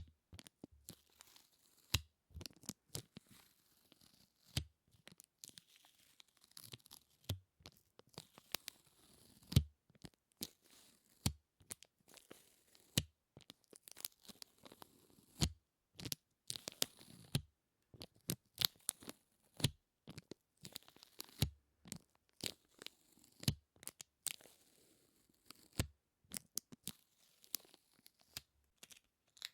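Close-miked sticky sounds: something tacky is pulled apart over and over, giving irregular peeling crackles and small snaps.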